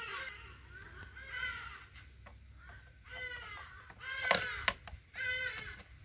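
A bird calling in the background, four short calls a second or so apart, with two sharp clicks a little after four seconds in.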